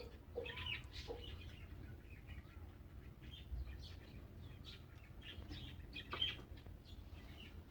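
A hen clucking low a few times in the first second, with small birds chirping in short, high calls throughout.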